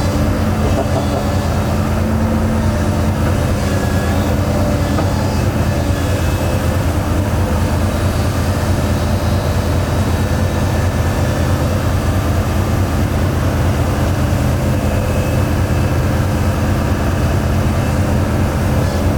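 Heavy diesel engine of construction equipment running steadily: a deep, even drone with a rapid pulsing rumble and no change in pitch.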